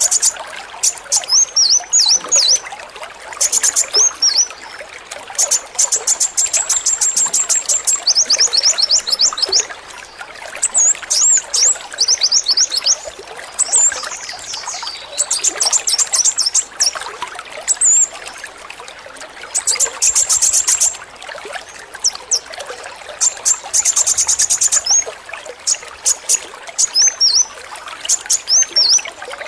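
Male kolibri wulung sunbird singing in bursts of rapid-fire, machine-gun-like high trills, the 'AK-47' song, broken up by short down-slurred hooked notes. Under it runs a steady trickle of running water.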